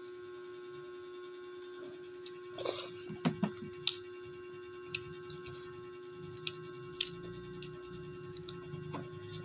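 Eating sounds during a meal: scattered soft clicks and smacks of chewing and utensils, with a clustered run of them about three seconds in, over a steady electrical hum.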